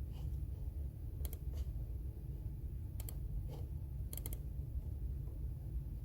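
Computer keyboard being typed on slowly: a handful of sparse key clicks in small clusters over a steady low hum.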